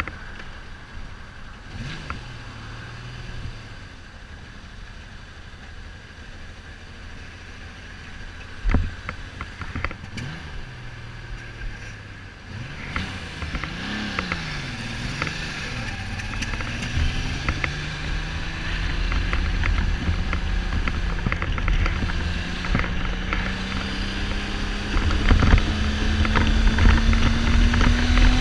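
Kawasaki Z1300 six-cylinder engine under way, with a few short throttle blips in the first half, then pulling steadily with rising pitch from about halfway, as wind noise builds. The engine is misfiring, not running on all cylinders, which the owner puts down to carburettor or spark plug trouble. Helmet and camera-mount rattles click throughout.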